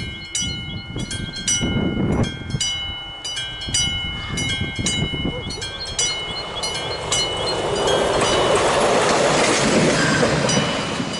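Classic electric level-crossing bell striking over and over, each strike ringing on, while a train runs over the crossing. The train's noise swells over the second half.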